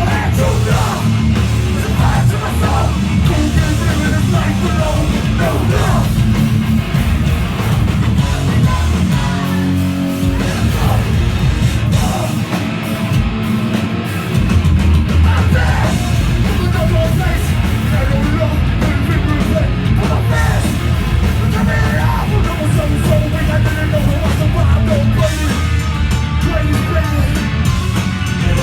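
Live hardcore punk band playing loud, with distorted electric guitars, bass and drums and shouted vocals; the low end drops away briefly about ten seconds in before the full band comes back in.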